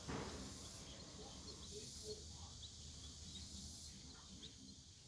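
A few faint, short bird chirps over a faint steady high-pitched hiss, with a soft knock right at the start.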